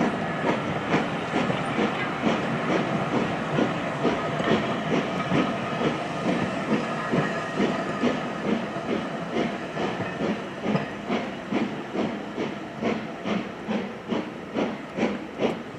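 Steam locomotive working, its exhaust beating in an even rhythm of about two chuffs a second over a steady hiss of steam.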